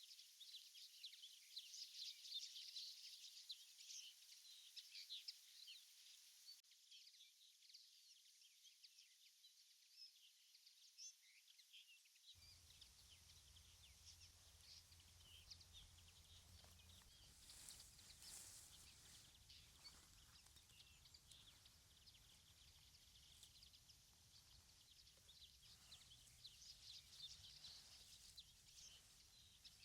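Faint birdsong in woodland: many short chirps and twitters, busiest in the first few seconds and again near the end.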